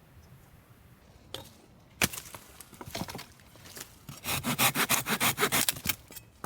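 Folding hand saw (Silky Gomboy) cutting through firewood: a knock as the blade is set about two seconds in, a few slow strokes, then a quick run of strokes, about five a second, from roughly four seconds in.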